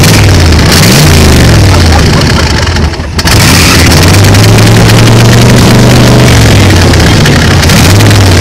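1966 Chevrolet Camaro's engine running loudly just after a reluctant start, revved up and back down a couple of times with the throttle.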